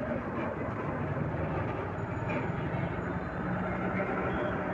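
Motorcycle running at steady riding speed, a low engine hum under wind and road noise on the rider's microphone.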